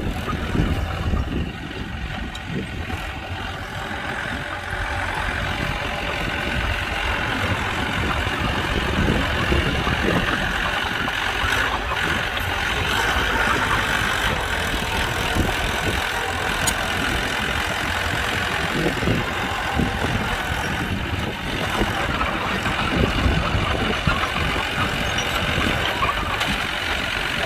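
Diesel engine of heavy earthmoving machinery running steadily, slightly louder from about five seconds in.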